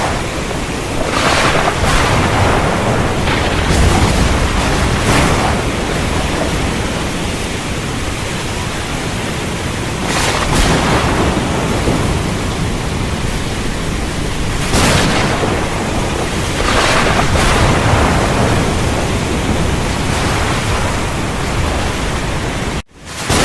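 Heavy rain pouring steadily under low rumbling thunder, with several louder swells of crackling thunder and downpour. The sound cuts out for a split second near the end.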